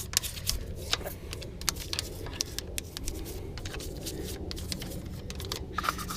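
Toothbrush scrubbing a wet car wheel coated in wheel cleaner: quick, irregular scratchy brush strokes.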